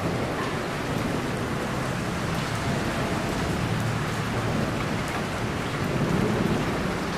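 Steady rain falling, with a low rumble of thunder underneath that swells slightly about six seconds in.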